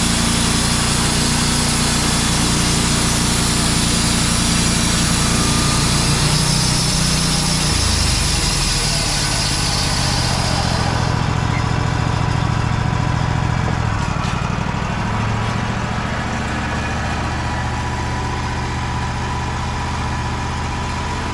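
Wood-Mizer band sawmill running steadily as it saws a pine log, its engine under constant note. A high hiss sits over the engine for the first half and falls away about halfway through, leaving the engine running on.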